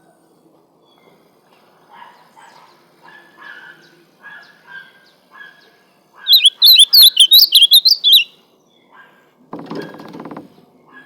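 Ultramarine grosbeak (azulão) singing a loud, fast warbled phrase lasting about two seconds, a little past the middle, after faint short calls repeating about twice a second. A short rough noise follows near the end.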